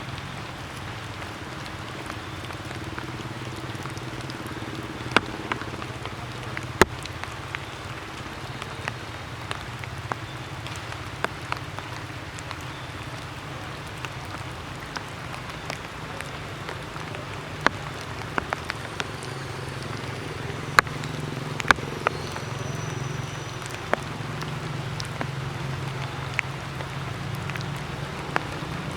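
Leftover rainwater dripping after a shower, sharp drops tapping at irregular moments over a steady low background rumble.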